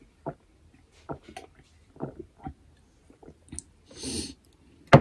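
Close-up chewing and biting of food in the mouth: a string of short, wet mouth sounds about every half second, with a brief hiss about four seconds in and a sharp click right at the end.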